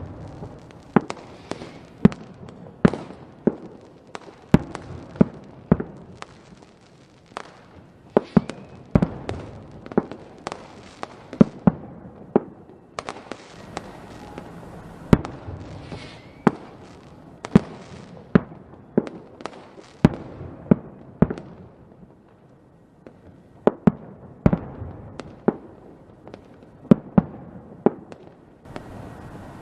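Fireworks going off: a steady run of sharp bangs, about one or two a second at uneven spacing, over a continuous crackle and hiss.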